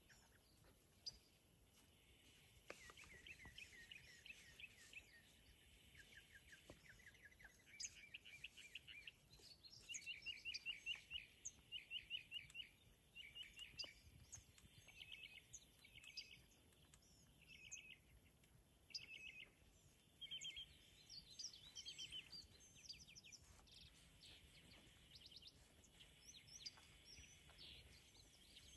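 Wild birds calling in the background: short quick runs of high chirps, each about a second long, repeated over and over, thinning out toward the end, over faint outdoor background noise.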